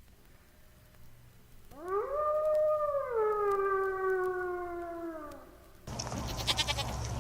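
An animal's single long call, lasting about three and a half seconds, rising at the start and then sliding down in pitch. Near the end the recording cuts to a noisier one with a quick run of clicks.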